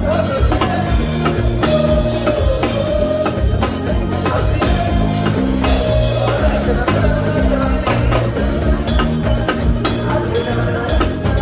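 Live band playing during a sound check: drum kit hits over a bass line moving in steps, with a held higher note above.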